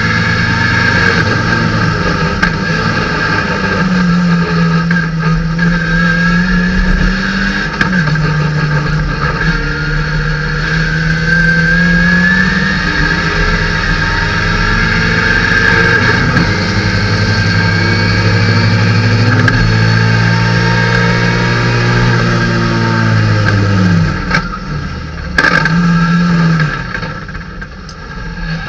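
Datsun 510 race car's four-cylinder engine under hard throttle, heard from inside the stripped cockpit: the pitch climbs in long pulls, falls back at a shift, then drops away late on as the car slows for a corner, with a short burst of revs.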